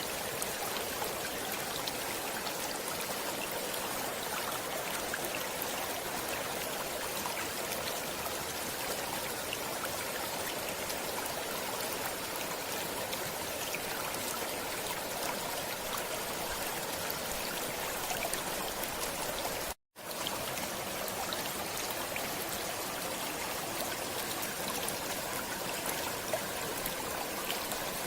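Steady running water of a stream, an even babble with faint scattered drips. The sound cuts out completely for a split second about twenty seconds in, then resumes unchanged.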